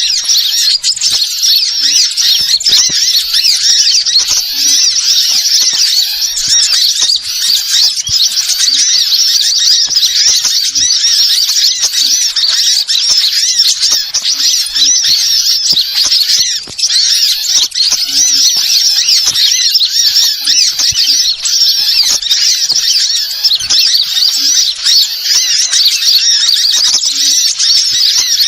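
Rapid, high-pitched bird chirping and twittering, dense and unbroken: a bird-lure recording of small songbirds.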